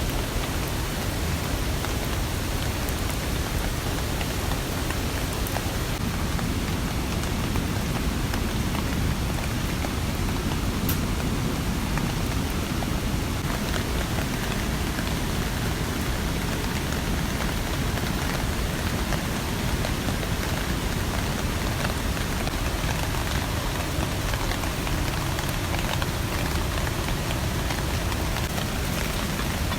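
Steady rain falling, with a few faint sharp drop ticks scattered through it.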